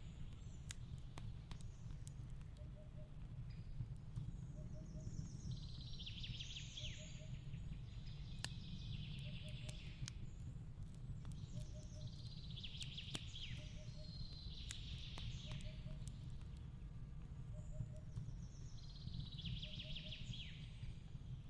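A log fire crackling over a steady low rumble, with sharp pops scattered throughout, while a songbird sings a short falling phrase every three to four seconds.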